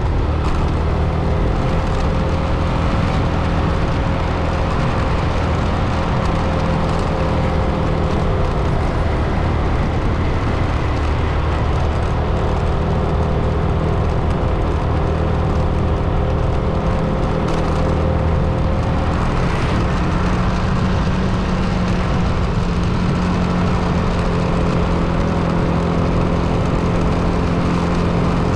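Car driving: steady engine and road noise with a low hum, its engine tones shifting slightly in pitch about two-thirds of the way through.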